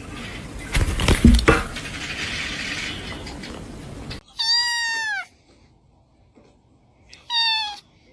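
A cat meowing twice: a long meow about four and a half seconds in that falls in pitch at its end, and a shorter meow near the end. Before the meows there is a noisy stretch with a few thumps about a second in.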